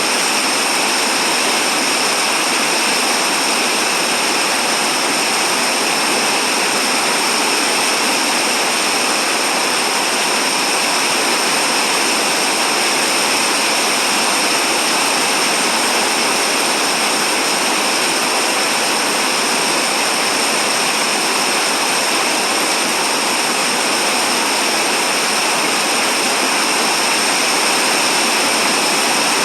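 Steady, unbroken hiss of rain falling, even throughout with no separate drops or gusts standing out.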